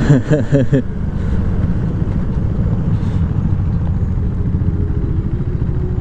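Motorcycle engine running steadily under the rider, heard as a continuous low rumble with rushing air, while a short string of about four quick pitched chirps sounds in the first second.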